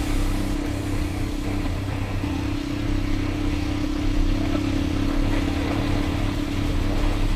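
Dirt bike engine running at a steady speed while riding, one even engine note with low rumble and road noise underneath.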